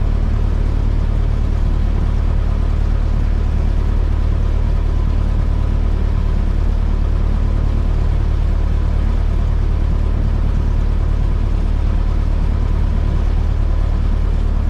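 A Cessna 172S's four-cylinder Lycoming engine and propeller running steadily on the ground, heard as a constant low drone inside the cabin.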